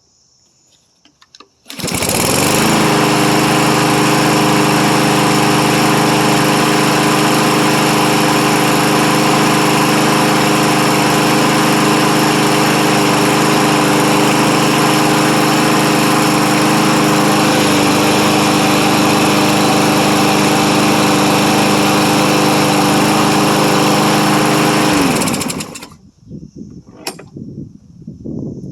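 Troy-Bilt self-propelled push mower's small engine starting about two seconds in, revving up briefly to a steady run, then shutting off near the end. It now runs after a carburetor cleaning for a no-start caused by gas left sitting in it.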